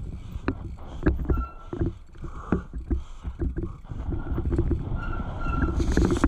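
A dirt-jump bicycle racing down a dry, rough dirt trail: tyres rumbling over the ground and the bike rattling and knocking over bumps, with wind on the microphone. A few brief high squeaks come in between.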